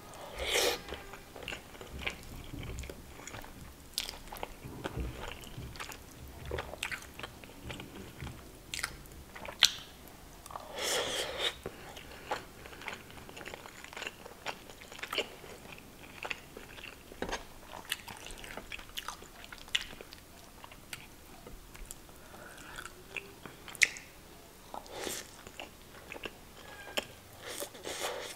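Close-miked mouth sounds of a person chewing handfuls of chicken tikka masala and rice: irregular wet smacks and clicks, louder just after the start and again about eleven seconds in.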